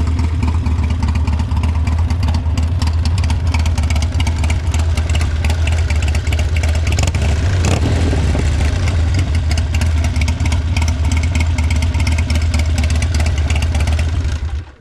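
Harley-Davidson Sportster's air-cooled V-twin running through a Two Brothers Racing (TBR) aftermarket exhaust, a steady loud exhaust note. The sound cuts off suddenly near the end.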